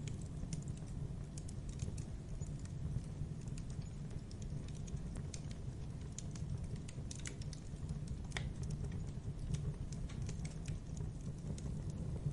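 Campfire burning: a low steady rumble of flames with irregular sharp crackles and pops from the burning wood.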